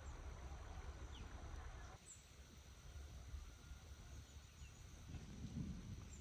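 Faint outdoor ambience: a low steady rumble and hiss with a few short, thin bird chirps here and there.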